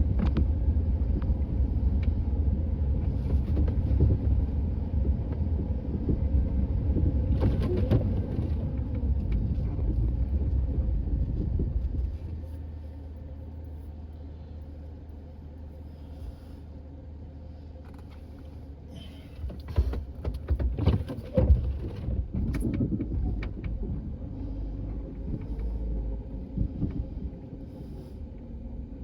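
A vehicle engine running hard while clearing snow: loud for the first twelve seconds, then dropping to a lower level. About twenty seconds in comes a short run of irregular knocks and clatter.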